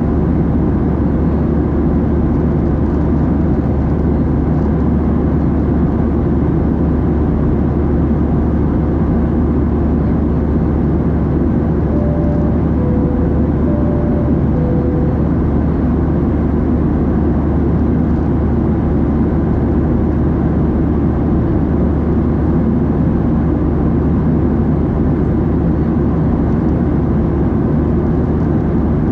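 Steady cabin roar of a Boeing 737-700 in flight, engine and airflow noise heard from a window seat, deep and unchanging. About halfway through, a soft two-tone high-low cabin chime sounds twice.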